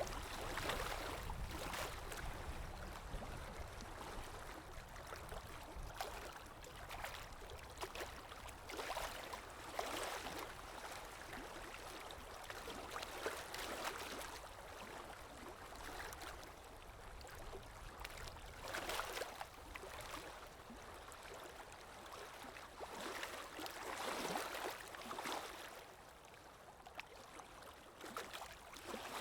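Paintbrush swishing across watercolour paper: soft, brushy strokes that swell every few seconds, with a few small taps in between.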